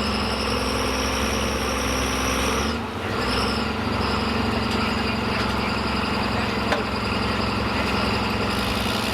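Diesel engine idling steadily with a high whine above it; both dip briefly about three seconds in, then settle back to a steady idle.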